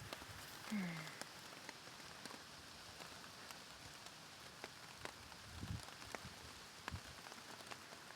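Steady rain, with scattered drops tapping sharply on a plastic sheet shelter overhead.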